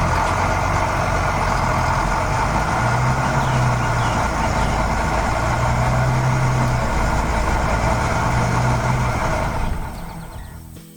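A heavy vehicle engine runs loud and steady, with a low hum that swells three times. It cuts in suddenly and fades out near the end.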